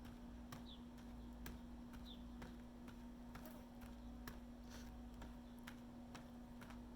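Faint footsteps of a person walking at a steady pace, about two steps a second. A few short high chirps sound over them.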